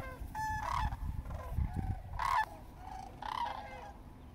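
Birds calling: a string of short pitched calls, the loudest about two seconds in, with a quick high rattling series near the start.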